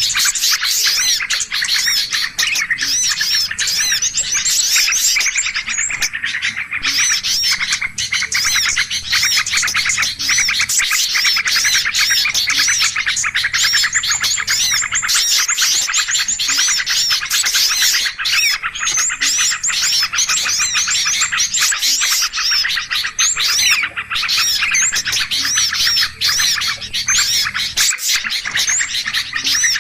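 Bird-lure recording of many small birds chirping and calling over one another in a dense, busy chorus of high, quick, rising-and-falling notes that runs without a break.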